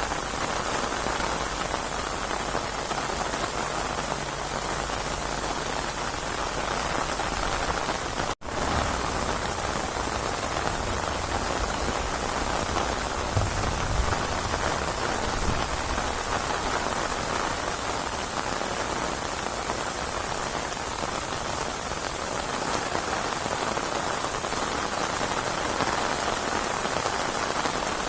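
Heavy, steady rainfall: a dense, even hiss of rain hitting surfaces. The sound cuts out for an instant about eight seconds in, and a few brief low rumbles come through a little later.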